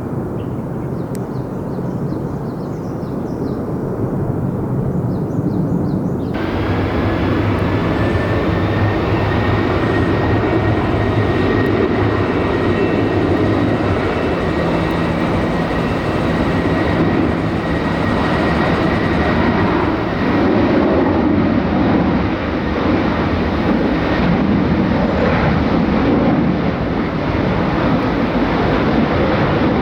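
Jet airliner engines running loud and steady, a continuous roar with a faint high whine. The sound turns abruptly brighter about six seconds in.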